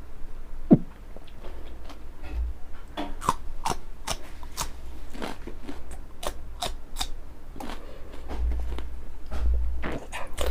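Biting and chewing raw green chillies close to the microphone: a run of crisp crunches and wet chewing clicks, with low thumps underneath.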